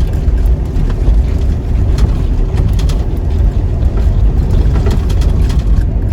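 Toyota Hilux 4x4 driving slowly over a rough, rocky, wet track: a steady low engine and road rumble, with frequent small knocks and rattles from the bumps.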